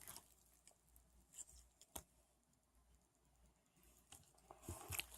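Near silence, with a few faint, short clicks and soft handling noises.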